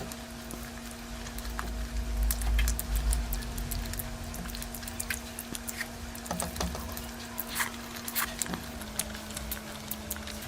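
Close-miked eating sounds: irregular wet clicks and smacks of chewing curry, over a faint steady hum, with a low rumble about two to three and a half seconds in.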